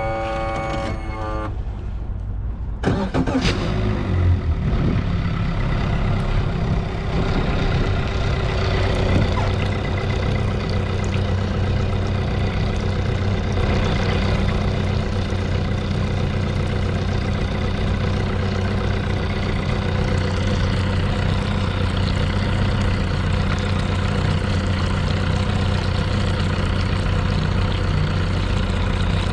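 The 130-horsepower engine of a Yamaha Bay Fisher 23 boat is cranked and catches about three seconds in, revs briefly, then settles into a steady idle. Before it starts, a steady tone stops about a second and a half in.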